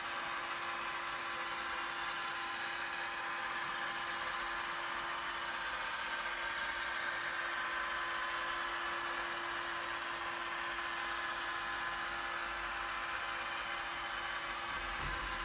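iRobot Roomba Combo i5+ robot vacuum running: a steady motor whir with a constant high whine.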